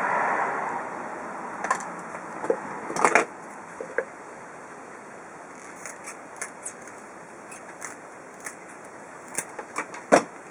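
A steady rushing noise fades out in the first second. Then come scattered light clicks and knocks of hand work on small metal parts, a cluster about three seconds in and the sharpest knock near the end.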